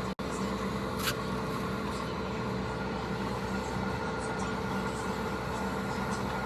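Steady hum of industrial factory machinery with several constant tones, and a single sharp click about a second in.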